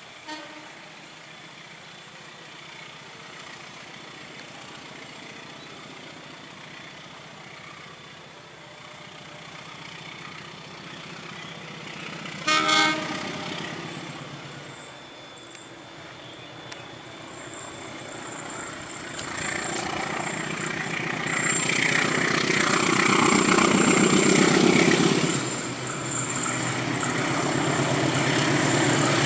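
Diesel-electric locomotive hauling a passenger train: a short horn blast about halfway through, then the engine working under load and the wheels on the rails growing louder as the train climbs toward the listener, with a thin high squeal from the wheels on the curve.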